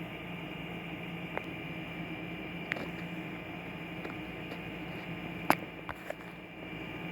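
Steady background hum with a few short sharp clicks, the loudest about five and a half seconds in, followed by two smaller ones.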